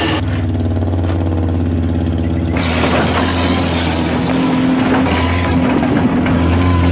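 A motor vehicle's engine running steadily. About two and a half seconds in, a louder rushing, rattling noise joins it.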